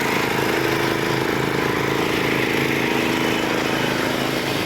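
Homemade zero-turn ride-on mower's small 3-horsepower engine running steadily under load while mowing, holding its speed without bogging down.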